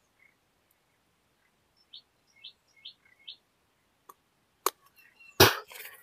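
A small bird gives four short high chirps in quick succession, about two a second. Near the end come a couple of sharp clicks and a brief loud rustle.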